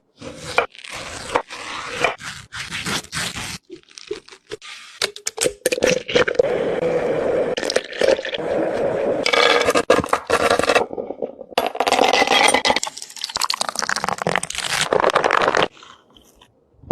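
Knife cutting and scraping through crisp fruit: a run of crunching, scraping strokes, some short and some drawn out over several seconds, each stopping abruptly.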